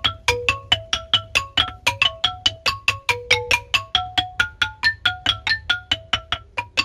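Balinese rindik, a bamboo xylophone, played with mallets: a quick, even run of struck bamboo notes, about six a second, in a repeating melodic pattern, with a steady low hum underneath.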